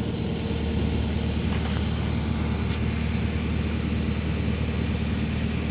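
Crane truck's engine running steadily while it hoists a load straight up; the low hum picks up slightly about half a second in.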